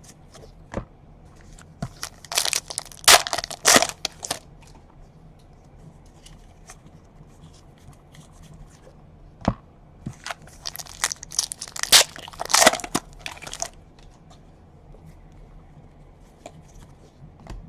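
Trading card packs being torn open, in two stretches of crinkly tearing and crumpling of the wrappers, with a few sharp clicks between them.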